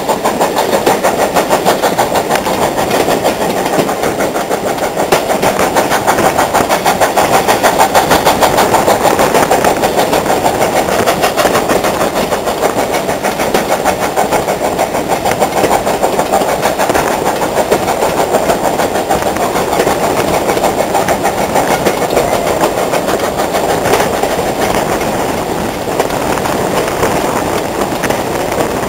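Steam locomotive working hard, its exhaust beating in a rapid, even rhythm. It is loudest about eight seconds in, then eases slightly.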